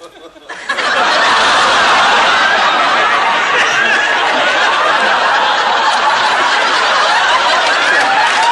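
Studio audience laughing and reacting loudly, swelling up about a second in and holding.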